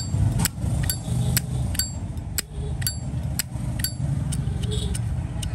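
Metal lid of a Zippo lighter clicking repeatedly, about two sharp clicks a second, several with a short bright metallic ring.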